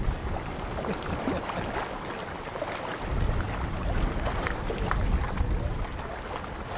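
Wind buffeting the microphone in gusts over the rush of water along a sailing boat's hull.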